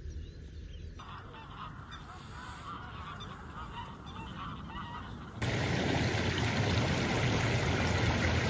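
Honking bird calls, repeated over the first few seconds. About five seconds in, a loud, steady rush of noise starts suddenly and drowns them out.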